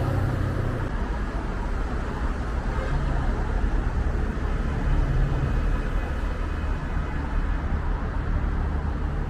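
Steady low rumble of road traffic and vehicle noise.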